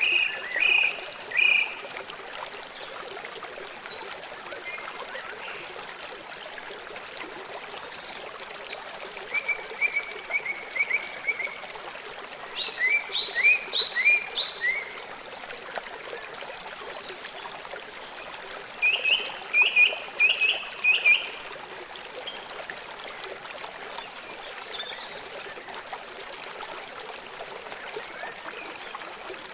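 Stream flowing steadily, with a songbird singing four short phrases of quick, repeated high notes.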